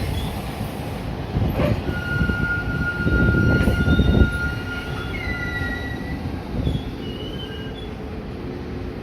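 Puyuma Express tilting electric train passing, its wheels squealing in thin high tones over the rumble, with a long steady squeal and then a short falling one. The rumble eases off after about four seconds as the train moves away.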